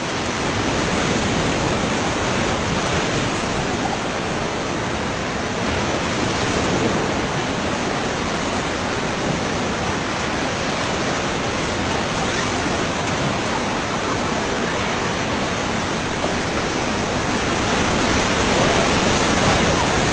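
White-water river rapids rushing around a raft: a steady, full rush of water noise that grows a little louder near the end.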